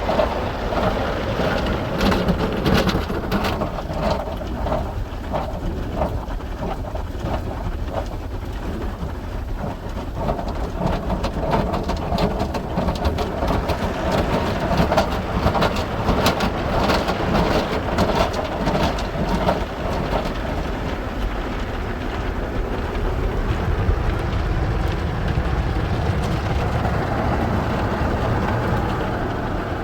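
Belanger FreeStyler automatic car wash running: water spraying and pattering against a car over the steady low rumble of the wash machinery. The patter is densest through the first two-thirds and gives way to a smoother rush near the end.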